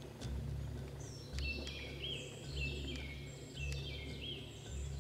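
A songbird chirping in quick high notes, with looping call notes about two seconds in and again near four seconds, over a low rumble that swells and fades about once a second.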